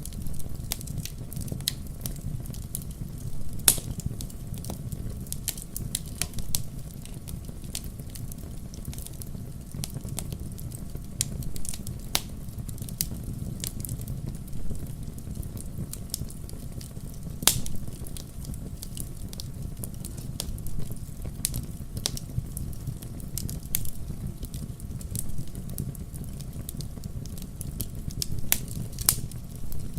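Wood fire burning in a fireplace, crackling with scattered sharp pops over a steady low rush of flame. A few louder pops stand out: a few seconds in, about midway, and near the end.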